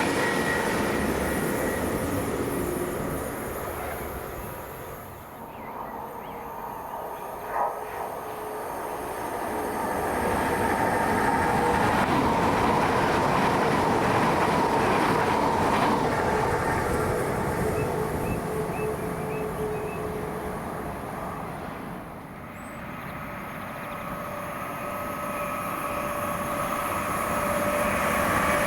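Train running through a station on the main line, a steady rumble with a faint whine. It is loud at first, fades, swells again to a long peak about halfway, dips, then builds once more near the end. There is one short sharp click about eight seconds in.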